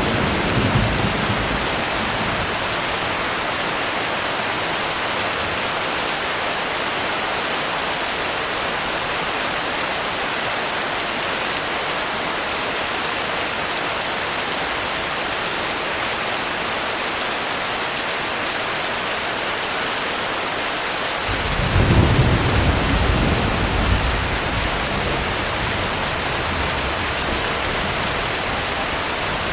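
Steady rainfall, with a low rumble of thunder fading away at the start and another rumble of thunder rolling in about two-thirds of the way through, loudest for a few seconds before dying away.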